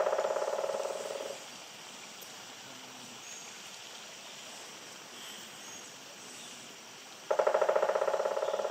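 A woodpecker drumming on a tree: two rapid, even rolls of knocks with a hollow ringing pitch, each fading away over about two seconds. One roll ends about a second and a half in, and another starts near the end.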